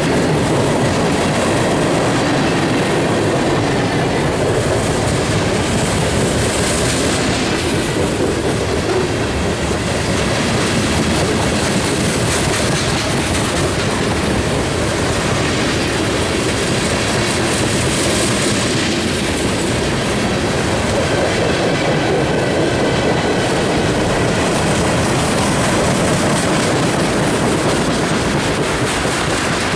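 Freight cars of a long manifest train rolling steadily past, wheels clacking and rumbling over the rails.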